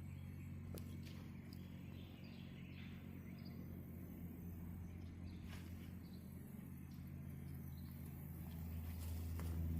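Outdoor ambience: scattered short bird chirps over a steady low hum, with a few faint clicks.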